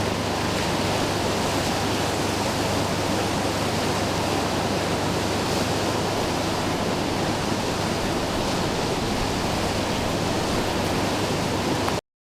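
Steady rush of white water on an artificial whitewater rapids course, cutting off abruptly near the end.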